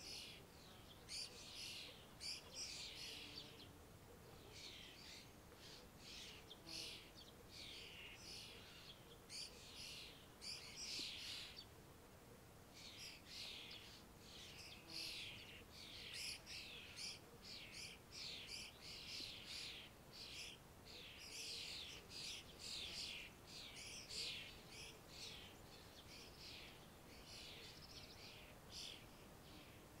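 Faint songbirds chirping, many short, quick calls following one another almost without a break, with a brief lull about twelve seconds in.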